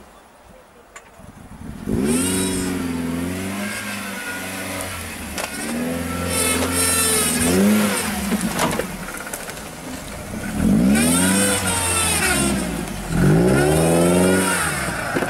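Engine of a lifted small off-road 4x4 revving hard in repeated bursts as it climbs muddy banks, the pitch rising and falling several times, starting about two seconds in.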